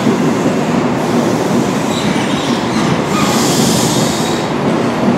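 East Midlands Trains HST (InterCity 125) moving along the platform, its coaches rolling past with a steady rumble of wheels on rail. A high hiss rises over it about three seconds in and lasts a little over a second.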